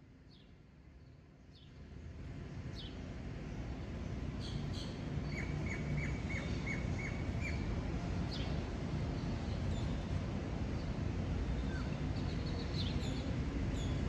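Small birds chirping: scattered short, sharp high chirps, with a quick run of about seven repeated notes about five to seven seconds in. Under them a low rumble swells about two seconds in and stays, louder than the birds.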